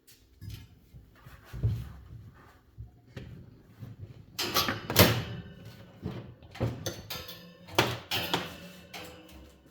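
Knocks and clatter of objects being handled and set down, a string of separate bumps, loudest about five seconds in and again near eight.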